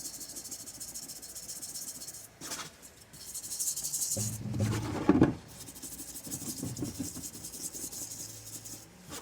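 Brush scrubbing a greasy steering knuckle part from a Suzuki Samurai front axle clean, a fast, fine scratching that stops briefly now and then. A louder knock comes about five seconds in.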